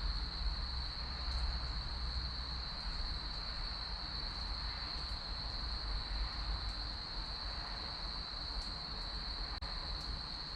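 Wood fire of chestnut and cherry logs burning, with a few faint sharp crackles and pops scattered through, over a steady high insect trill and a low rumble.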